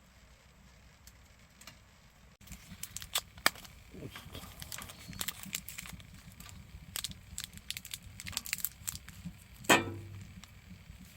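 Wood fire burning in a wood stove, crackling with irregular sharp pops, which begin abruptly about two seconds in; one louder pop near the end.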